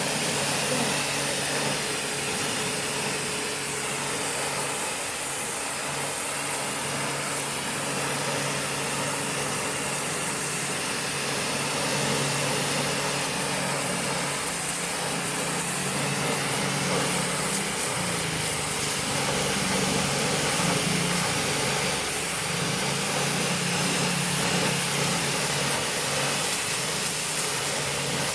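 High-pressure washer running steadily: the pump motor's hum under the hiss of the water jet spraying onto stone.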